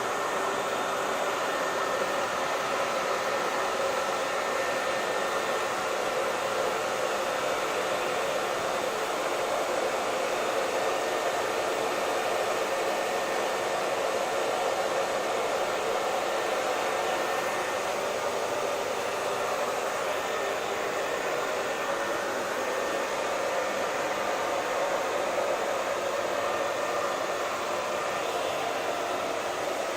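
Hair dryer running steadily: an even rush of blown air over the motor's faint steady whine, unchanging throughout.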